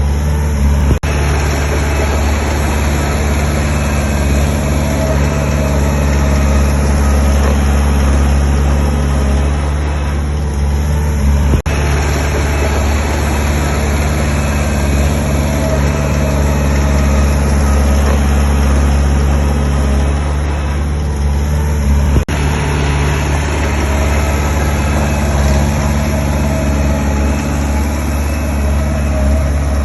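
Heavy diesel earthmoving machinery running steadily, with a deep engine drone. It is cut by a brief click and dropout three times, about a second, eleven seconds and twenty-two seconds in.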